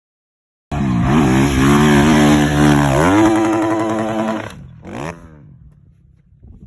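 Dirt bike engine revving hard. It starts abruptly under a second in and climbs in pitch about three seconds in. It then fades away over about a second, with one short rev blip about five seconds in before it goes faint.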